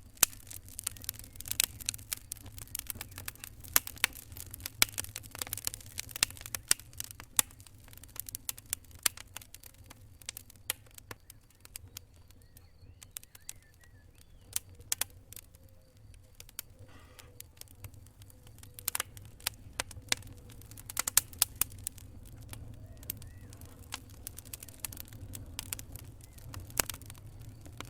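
Wood fire burning in a fireplace, crackling and popping irregularly over a low rumble of the flames; the pops come thickest in the first few seconds and again from about 19 to 22 seconds in.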